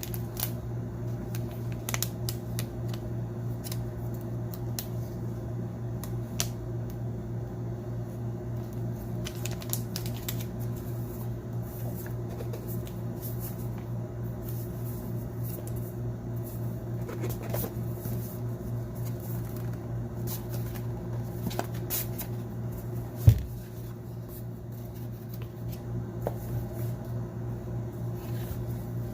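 Hands handling a phone and its packaging: frequent small clicks, taps and rustles over a steady low electrical hum, with one louder knock on the work surface about three quarters of the way through.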